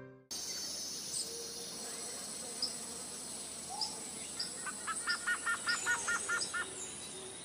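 Birds chirping over a steady outdoor background hiss: scattered short, high chirps, and near the middle one bird repeats a short note about four times a second for a couple of seconds.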